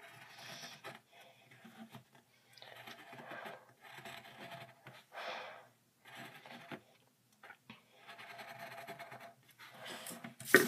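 Faint scratching strokes of a drawing tool on paper, coming in short, irregular runs.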